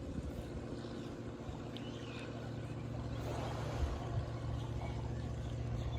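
An engine running steadily, a low even drone that grows slowly louder.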